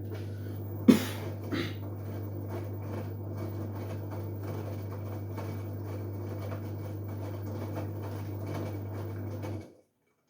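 LG Direct Drive washing machine running mid-wash: a steady low hum with the drum tumbling. A sharp knock comes about a second in, and a smaller one shortly after. The sound cuts off suddenly near the end.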